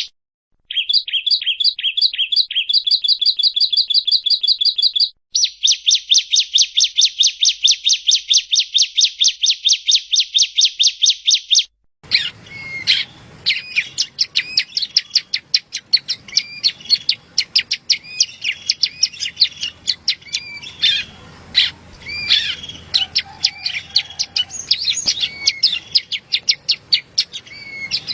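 Yellow-bellied prinia (prenjak rowo) singing: fast runs of repeated high chirping notes, first in short series, then a long, even, rapid trill. About twelve seconds in the recording changes abruptly to a noisier one with a busy stream of rapid, varied chirps.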